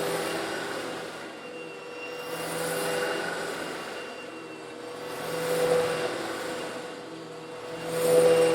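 Old Eureka vacuum cleaner running with a steady motor whine as it sucks up small coarse stone granules, slightly larger than sand. The sound swells and fades about every two and a half to three seconds, four times in all.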